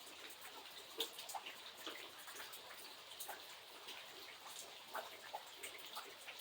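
Light rain falling steadily, with irregular close drops and drips ticking through it; the sharpest drop lands about a second in.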